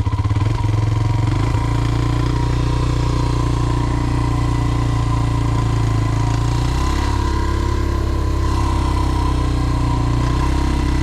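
Dirt bike's single-cylinder engine idling steadily, its pitch shifting slightly about seven seconds in.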